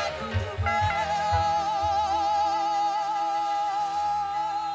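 Live gospel music: one voice holds a long, wavering note over drum beats, with band backing.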